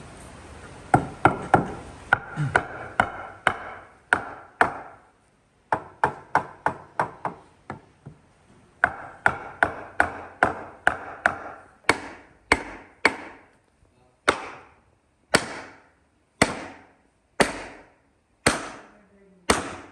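A hand tool striking wood repeatedly, in quick runs of about three blows a second with short pauses between them, then slower single heavy blows about once a second.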